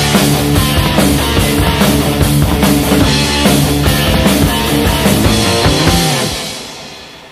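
Heavy metal band playing with distorted guitars and drum kit; about six seconds in the music stops and the last chord rings out, fading away.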